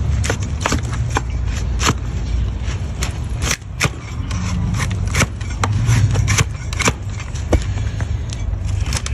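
Hoof knife paring a donkey's hoof: a quick, irregular run of crisp cutting and scraping strokes through the hoof horn, over a steady low rumble.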